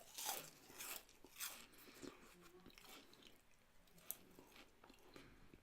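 Faint chewing and mouth sounds of a person eating, with a few soft smacks.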